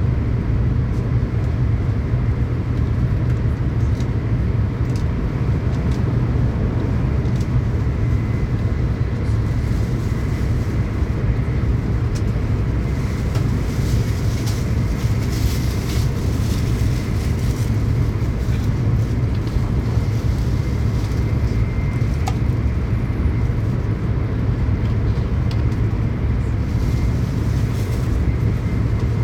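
Tokaido Shinkansen train running at speed, heard inside the passenger car: a steady low rumble with a thin, faint high whine and scattered faint ticks.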